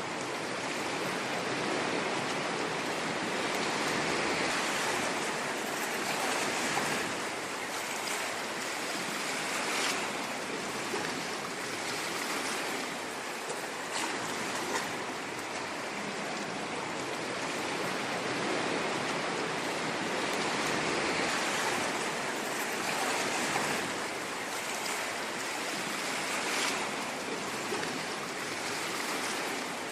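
Ocean waves breaking and washing on a shore, a continuous rush that swells and eases every few seconds.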